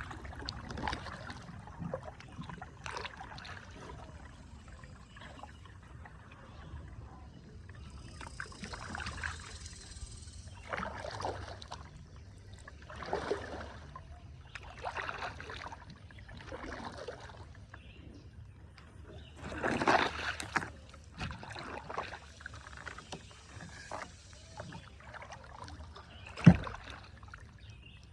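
Kayak paddle strokes swishing and splashing through the water, about one every two seconds. A single sharp knock near the end is the loudest sound.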